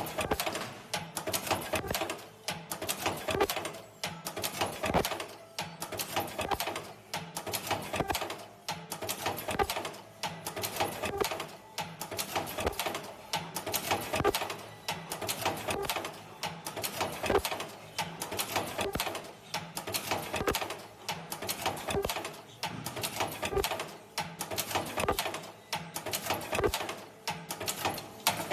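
Semi-automatic ultrasonic mask earloop welding machine running through its cycle, with clicks and clatter repeating about every second and a half.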